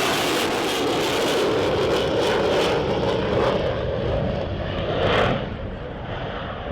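Fighter jet taking off, its engine noise receding as it climbs away; the high hiss dies away over the second half and the sound drops in level about five seconds in.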